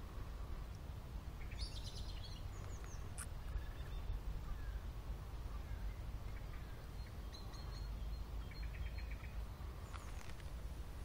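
Wild songbirds chirping in short bursts, about two seconds in and again as a quick run of notes near the end, over a steady low rumble.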